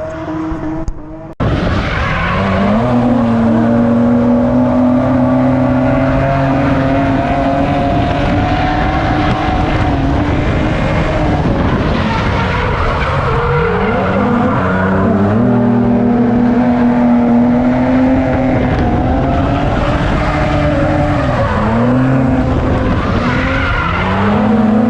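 Drift car engine held at high revs through a slide, its pitch steady for long stretches, dropping and climbing back up a few times as the throttle is lifted and reapplied, with tyres skidding.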